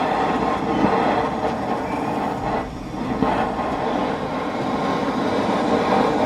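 Handheld torch running steadily, its flame played on one corner of the charcoal to light it. It dips briefly about two and a half seconds in, then carries on until it is shut off near the end.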